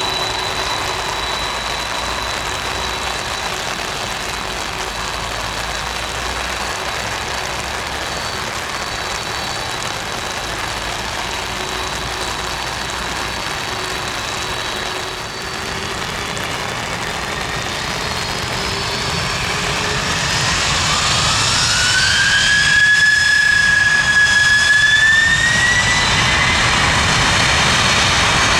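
Boeing 747-400F freighter's four turbofan engines running with a steady whine, then spooling up from about two-thirds through: a rising whine that levels off briefly and climbs again as the sound grows louder, typical of thrust being set for the take-off roll.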